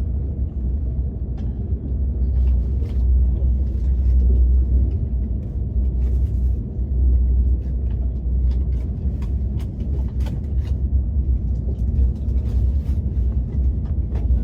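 Steady low rumble of a KTX high-speed train heard from inside the passenger car, with faint small clicks scattered over it.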